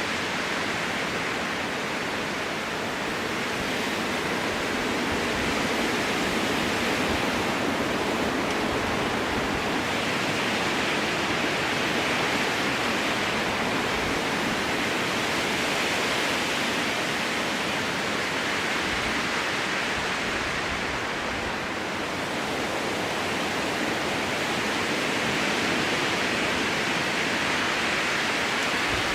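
Strong wind blowing through a spruce forest, a steady rushing that swells and eases slowly over several seconds.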